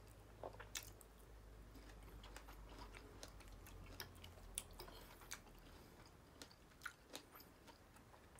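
Quiet, faint chewing and mouth clicks of someone eating soft pancakes, with scattered light clicks, over a low steady hum.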